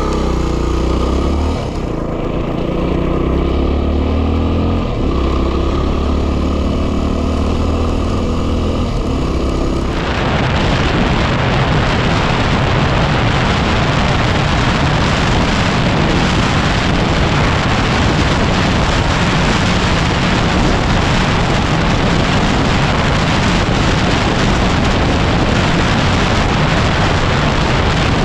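Yamaha WR250R single-cylinder engine running under way, its pitch stepping up and down as it is ridden. About ten seconds in, loud wind noise on the microphone sets in and drowns it out.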